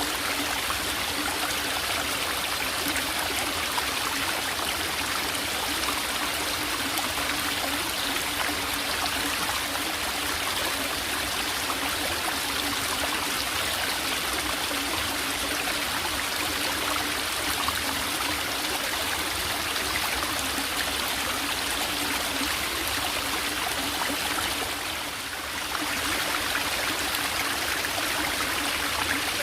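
Small forest stream trickling and flowing over rocks, a steady even rush of water that dips briefly softer near the end.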